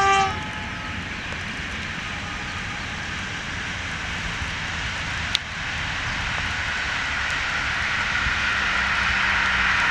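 Intercity passenger train running past at a distance: a steady rushing of wheels on rail that slowly grows louder. The tail of the locomotive's horn cuts off at the very start, and there is one sharp click a little past halfway.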